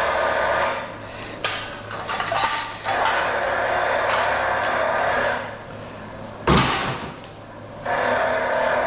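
A power tool runs in three stretches of two or three seconds each, with rattling and scraping of metal scrap between them. A single loud knock comes about six and a half seconds in.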